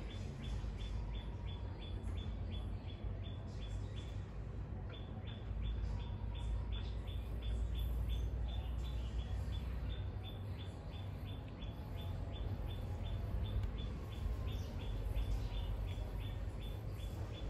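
A bird chirping rapidly and evenly, about four to five short high chirps a second with a brief pause near the start, over a steady low rumble.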